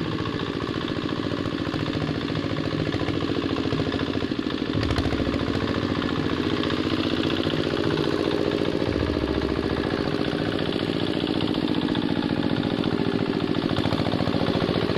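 Two-wheel hand tractor's diesel engine running steadily with a rapid, even firing beat and some clatter.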